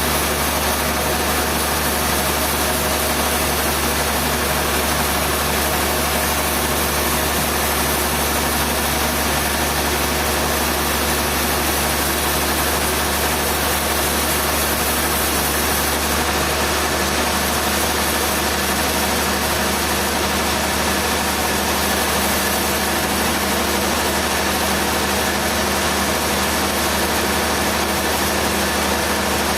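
A machine engine running steadily at a constant speed: an unchanging hum with a hiss over it, without revving or cutting load.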